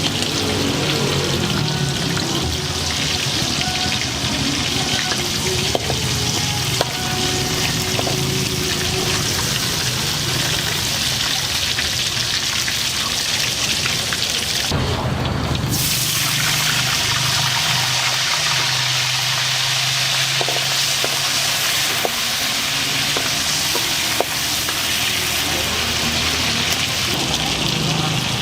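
Rice noodles and chicken frying in a hot wok: a steady sizzle with scattered sharp clicks of the spatula on the pan. The sizzle drops away for about a second near the middle, then returns.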